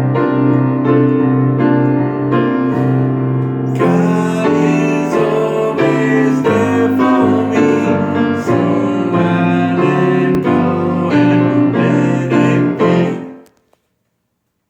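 Instrumental closing song on piano, chords and melody notes struck in a steady flow, ending abruptly about thirteen seconds in.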